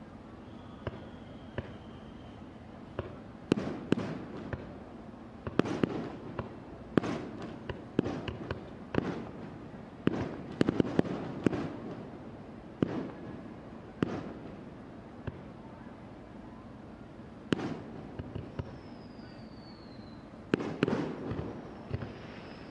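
Aerial fireworks shells bursting over a harbour: a long irregular run of sharp booms, each echoing off the surroundings, some in quick clusters, with a brief lull in the middle and a renewed volley near the end.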